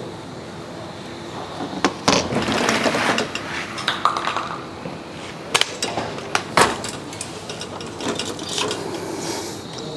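Unpacking handling noise: rustling with several sharp knocks and clinks of hard parts, loudest about two seconds in and twice around six to seven seconds in.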